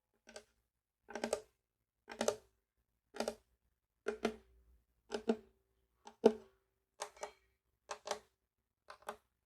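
Percussive taps on a ukulele in a steady beat of about one a second, mostly as quick double taps, each with a short ring from the instrument.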